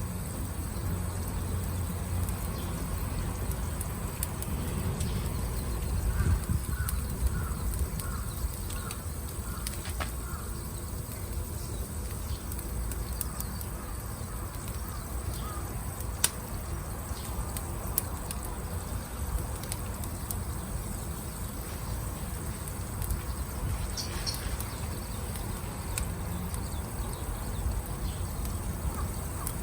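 Wood fire burning, with a few sharp pops over a steady low rumble. About six seconds in, a bird, likely a crow, gives a run of eight or so short repeated calls, and a brief high bird call comes near the end.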